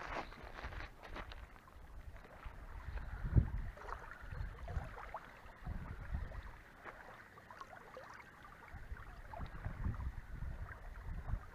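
Wind gusting on the microphone in uneven low rumbles, with faint water lapping and a few small chirps.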